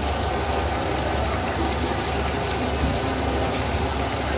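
Crab and masala sizzling steadily in an aluminium karahi over a gas burner, with a steady low rumble underneath.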